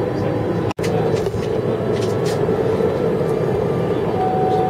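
Steady airliner cabin noise, the rush of the jet engines and air conditioning, after landing. There is a split-second dropout under a second in, and a thin steady tone joins near the end.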